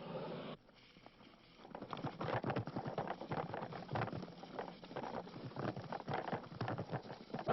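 Dense, irregular crackling and pattering that starts about a second and a half in, following a sudden cut-off of a steady noise.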